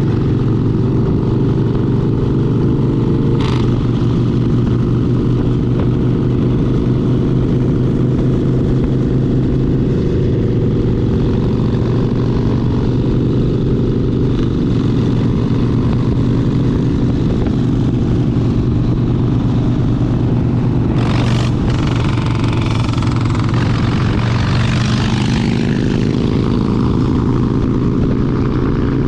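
Harley-Davidson Sportster 72's 1200 cc V-twin engine running steadily under way, its pitch climbing slightly near the end as the bike speeds up. Two brief sharp sounds stand out, one a few seconds in and one about two-thirds through.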